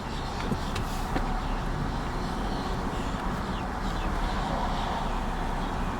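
A car engine idling, heard from inside the cabin as a steady low rumble with an even hiss.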